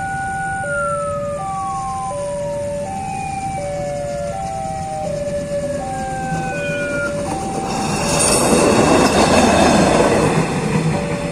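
Two-tone hi-lo ambulance siren alternating steadily, with a long tone sliding down in pitch beneath it. About eight seconds in, a vehicle rushes past loudly for a couple of seconds, and then the siren goes on.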